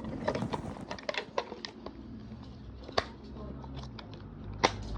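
Small plastic clicks and taps from handling the parts of a mini Henry desk vacuum, with a sharper click about three seconds in and another near the end.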